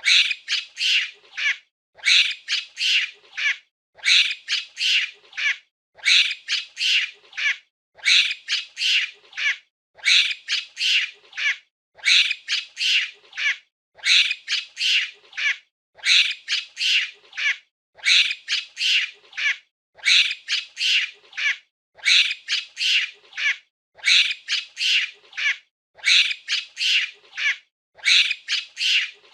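Monkey calling: quick runs of high, shrill chattering squeals. Each run lasts about a second and a half and repeats every two seconds in an even, looped pattern.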